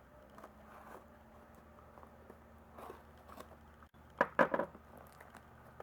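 Small pocketknife slitting the packing tape on a cardboard box: faint scrapes and clicks over a faint steady hum, with a brief murmured voice sound about four seconds in.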